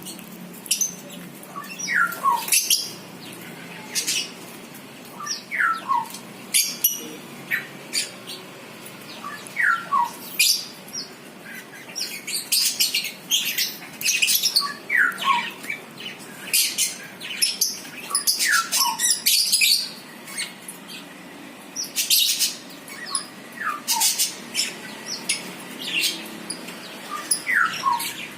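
Small birds chirping in quick, high, sharp notes, with a short falling two-step whistle repeating about every two seconds.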